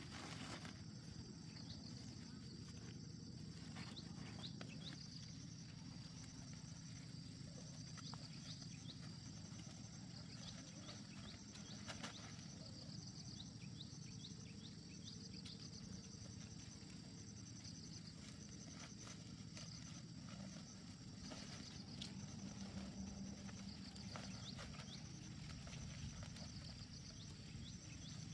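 Faint outdoor ambience: a steady high insect drone with small repeated chirps over a low, even rush, and scattered light clicks and knocks.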